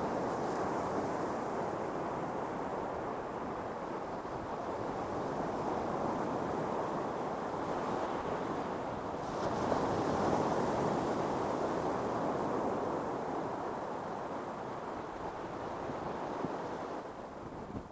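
Ocean surf on a sandy beach: a continuous wash of waves, with a wave breaking and swelling louder about halfway through.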